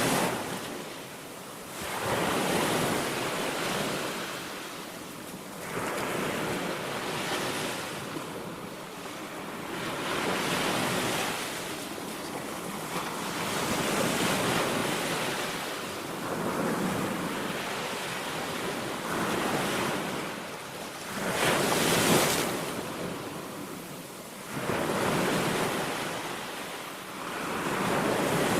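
Small sea waves breaking and washing on a beach, swelling and fading every few seconds, with wind on the microphone. The loudest wave breaks about three quarters of the way through.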